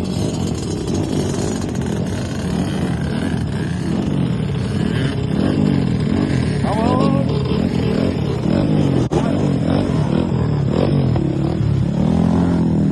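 Enduro motorcycle engine running off-road, its pitch rising and falling over and over as the throttle is opened and closed, with a sharp click about nine seconds in.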